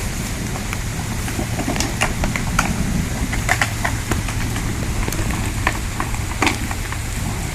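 Rain falling, with many scattered sharp drop hits over a steady low rumble.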